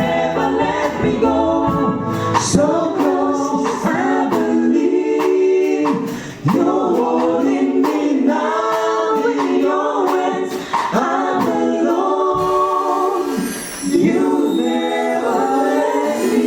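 Church choir singing a gospel song. The low accompaniment drops out about two and a half seconds in, leaving the voices nearly unaccompanied.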